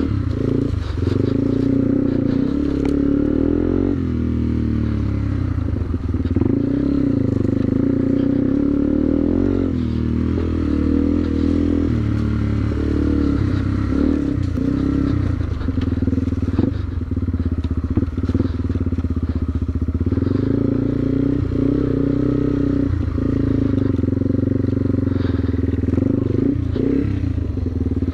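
Yamaha TW200's single-cylinder four-stroke engine running as the dirt bike is ridden off-road, its pitch rising and falling with the throttle. Occasional knocks and clatter from the bike over rough ground.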